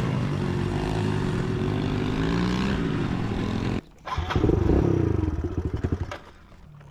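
Motorcycle engines running and revving, in two stretches cut off abruptly: a steady run with slowly shifting pitch, a sudden break about four seconds in, then a burst of revving that rises and falls before dropping away near the end.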